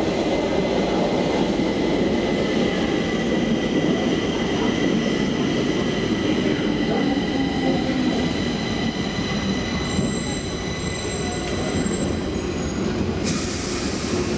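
Metro train running through the underground station: a steady rumble with a motor whine, thin high wheel squeal from about two-thirds of the way in, and a hiss that starts suddenly near the end.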